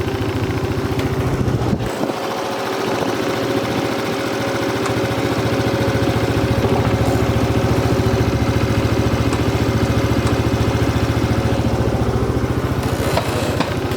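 Yamaha Cygnus 125X FI scooter's single-cylinder four-stroke engine idling with a steady exhaust note, growing somewhat louder over the first several seconds and then holding even.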